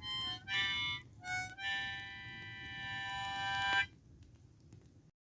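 Blues harp (diatonic harmonica) playing single notes: three short notes, then a long held note that swells and cuts off about four seconds in.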